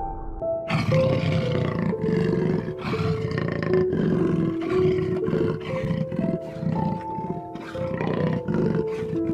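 A large animal roaring: a long rough call about a second in, followed by a run of shorter repeated roars and grunts, over background music with sustained notes.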